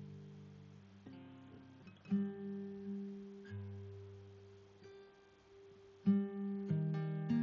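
Background music: a guitar playing slow plucked chords, each one struck and left to ring out and fade before the next.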